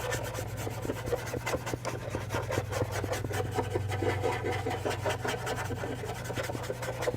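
Small flat paint brush rubbed quickly back and forth over charcoal on textured charcoal paper, a scratchy rubbing made of many short strokes, several a second, blending the charcoal.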